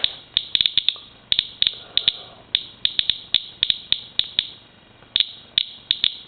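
Inspector Geiger counter clicking at random, uneven intervals, about five clicks a second, as it counts radiation from a rain-water sample at a rate of roughly 330 counts per minute.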